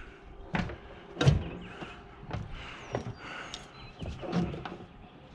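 Scattered knocks and clunks of scrap being handled: about five separate thumps, the loudest a little over a second in.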